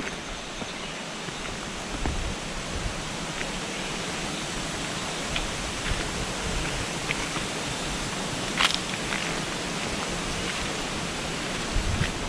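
Steady rush of flowing water, with one short sharp click about two-thirds of the way through.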